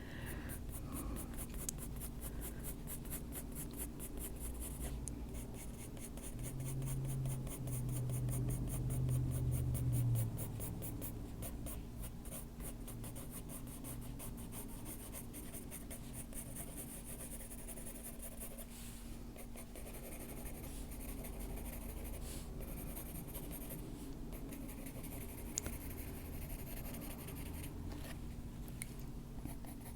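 Oil-based coloured pencil (Polychromos brown ochre) shading on paper: fine, rapid scratchy strokes that go on with short pauses. A faint steady hum sits underneath, and a low drone swells for a few seconds about a quarter of the way in.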